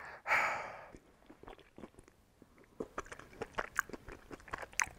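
A person chewing a mouthful of keto lasagna close to the microphone, with wet clicks and crunches that come thick and fast from about three seconds in. A brief louder noise sounds just after the start.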